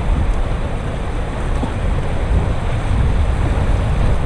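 Rushing whitewater of a river rapid around a raft, a steady loud rush with wind buffeting the microphone.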